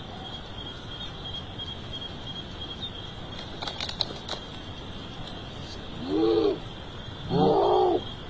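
Two drawn-out, moaning calls, each rising and then falling in pitch, the first about six seconds in and a longer one near the end. Under them runs a steady high-pitched drone like night insects. These are the eerie calls reported from the graveyard at night; what makes them is not shown.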